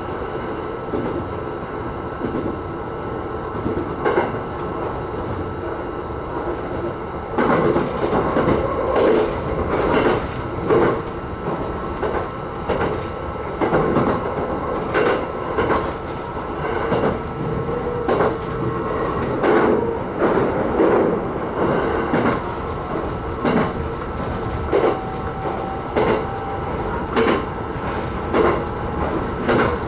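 JR East E129 series electric train running at speed, a steady rolling rumble of wheels on rail. From about seven seconds in, the wheels clack over rail joints roughly once a second.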